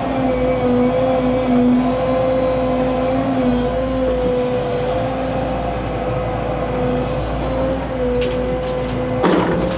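Diesel engine of heavy earthmoving equipment running at a steady speed with an even whine, with a few short clanks near the end.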